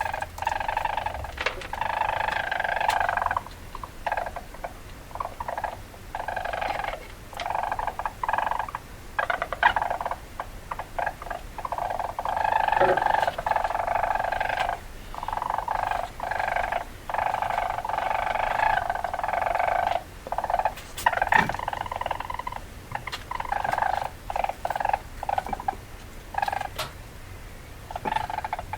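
Weasel calling: repeated bursts of rapid chattering, each lasting about a second or two, with short breaks and scattered clicks between them.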